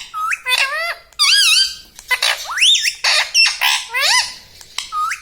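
Ringneck parrot squawking, a quick run of about eight loud calls, each sliding up and down in pitch.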